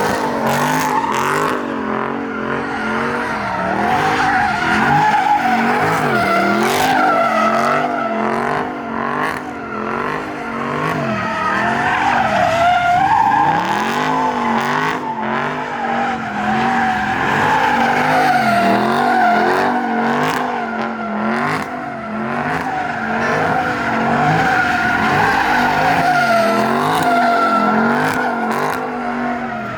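A car spinning donuts: its tires squeal without a break while the engine is held at high revs that waver up and down.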